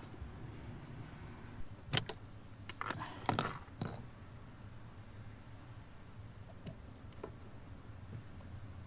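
A few faint clicks and a short spell of plastic rattling as fuses and an add-on fuse tap are handled and pushed into a car's fuse box, over a steady faint high-pitched tone.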